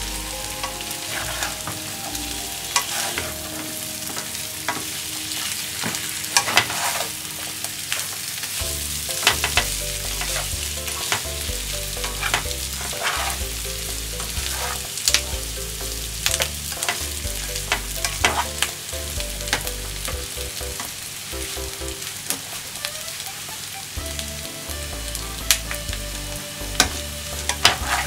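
Sliced potatoes with onion and bacon sizzling in oil in a frying pan, stirred and turned with a spatula that scrapes and knocks against the pan now and then.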